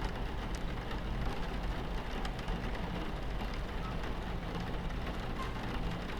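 Steady low rumble of a moving train heard from inside the carriage, with rain on the window and scattered faint ticks of drops over it.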